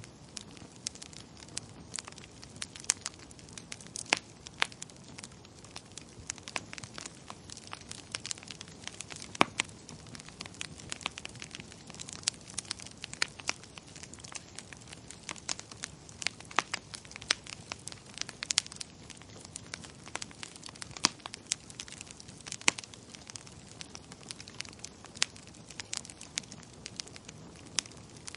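Wood fire in a fireplace crackling: irregular sharp pops and snaps, a few each second, over a steady low hiss of the burning.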